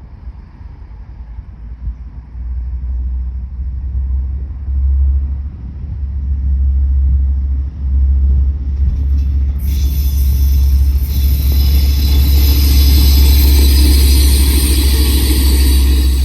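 DL class diesel-electric locomotive passing with its train: a deep rumble that builds over the first few seconds. About ten seconds in, a loud high-pitched hiss with steady ringing tones cuts in and carries on.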